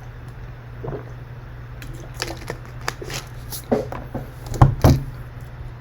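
A run of small, sharp plastic clicks, irregular and clustered in the second half, the loudest pair near the end, over a steady low hum.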